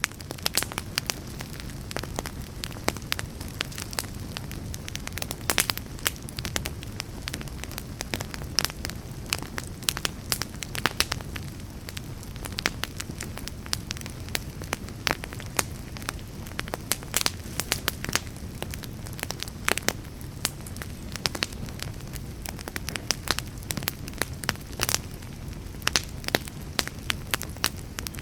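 Wood fire crackling, with frequent sharp snaps and pops at irregular intervals over a steady low rumble of the flames.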